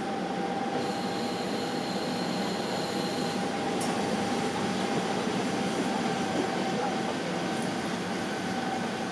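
JR Hokkaido KiHa 40 diesel railcar pulling slowly into a station platform, heard from inside the car: a steady rolling rumble with a thin, steady tone running through it.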